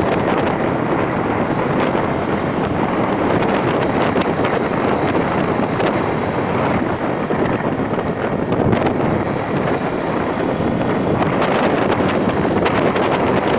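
Wind buffeting the microphone: a loud, steady rush of noise with a few faint clicks, as from the air stream on a moving ride.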